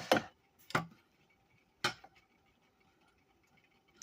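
Three short clinks of a dish or utensil being handled, spread over the first two seconds, with a faint steady hum underneath.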